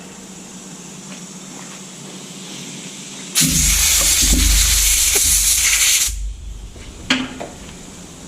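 A loud burst of spray hissing for about two and a half seconds, from cleaning out a small engine's carburetor, followed about a second later by a short knock.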